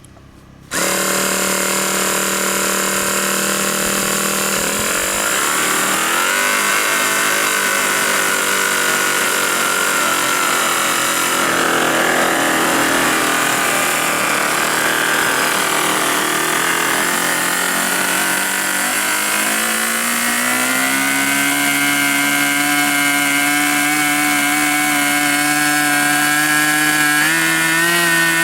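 G-Mark five-cylinder model radial engine running, cutting in sharply about a second in. Its speed wanders up and down, settles at a higher steady speed about twenty seconds in, and steps up again near the end.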